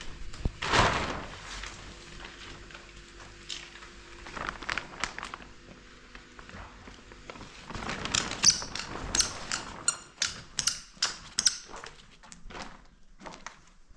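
Irregular knocks and clicks, with a brief rush of noise about a second in and a quicker, denser run of sharp clattering taps in the second half.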